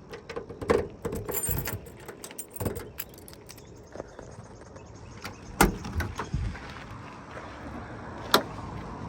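Keys jangling amid a string of scattered clicks and knocks.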